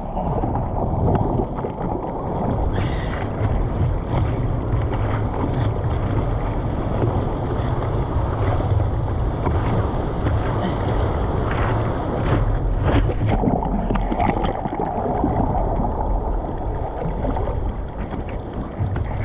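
A steady rush of wind on the microphone and moving seawater, with a few short knocks or splashes near the middle.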